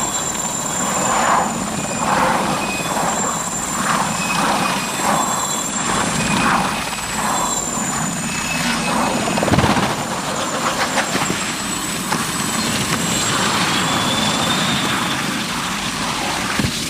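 Helicopter running, a steady high turbine whine over dense engine and rotor noise.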